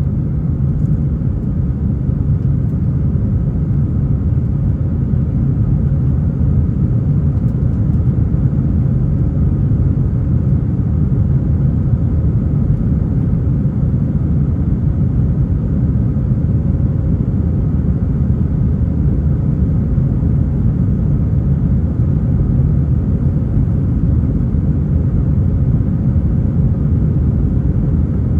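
Airbus A320 jet airliner, a loud, steady low rumble of engine and airflow noise.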